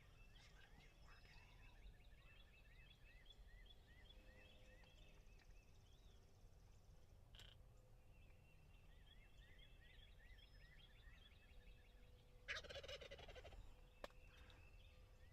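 Wild turkey gobbler gobbling once near the end, a loud rattling burst lasting about a second. Behind it a small bird repeats short high chirping notes several times a second.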